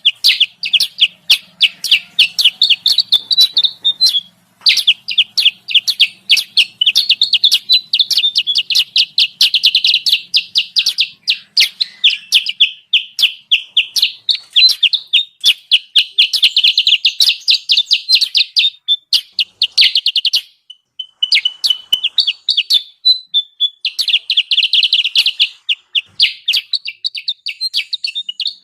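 Bird-lure recording of kutilang sutra calls: a dense, rapid run of high-pitched chirps, broken by short pauses about four seconds in and again around twenty-one seconds.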